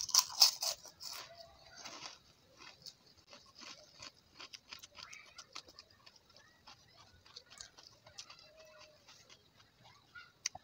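Close-up chewing and mouth sounds of a person eating by hand: a cluster of louder clicks and smacks in the first second as food goes into the mouth, then a run of fainter scattered clicks.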